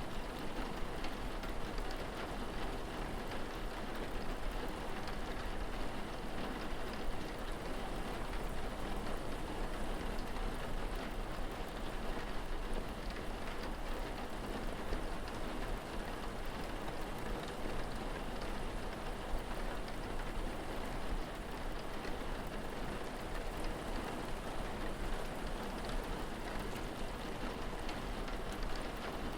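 Steady rain falling, an even patter with scattered faint drop ticks over a constant low rumble.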